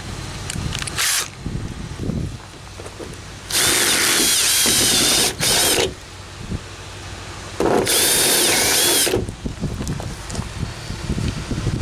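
Power drill run in short bursts: a blip about a second in, a run of nearly two seconds, a brief stop and a short run, then another run of about a second and a half near the end. The motor's whine dips and rises in pitch within each run. Lighter knocking and handling noise fills the gaps between runs.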